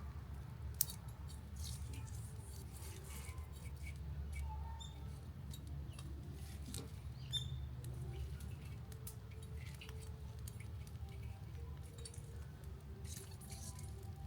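Wood campfire crackling, with scattered sharp pops and ticks over a low steady rumble; two pops stand out, about a second in and about halfway through.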